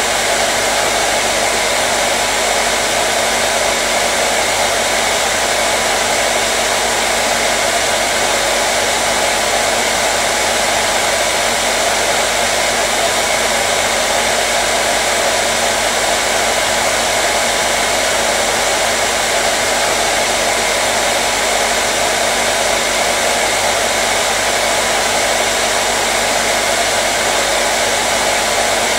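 Hair dryer blowing steadily: an even, unbroken whoosh of air with a faint motor hum underneath, with no change in speed or pitch.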